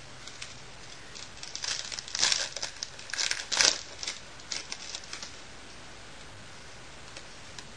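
Trading card pack wrapper crinkling and tearing as it is opened by hand: a run of crackly rustles starting about a second and a half in, loudest around two and three and a half seconds, then a few lighter crinkles before it goes quiet.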